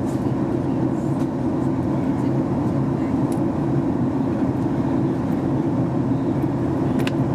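Steady low drone of a Boeing 737 MAX 8-200 cabin in flight: the engines and the airflow over the fuselage heard from a window seat, with a faint click near the end.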